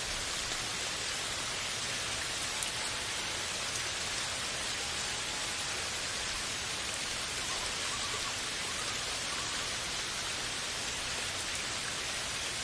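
Steady rain noise: an even, unbroken hiss of rainfall.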